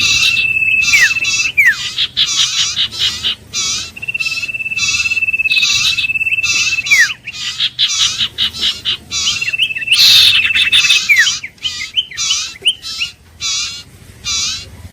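Iora calling: a run of rapid, repeated chattering notes, broken three times by a long level whistle that ends in a quick downward slur.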